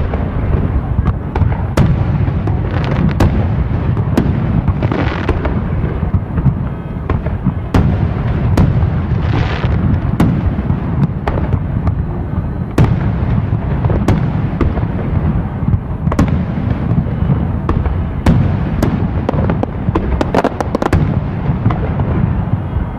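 A fireworks display: many firework shells bursting in quick succession, sharp bangs and pops over a continuous low rumble, with two brief hissing bursts about five and nine seconds in.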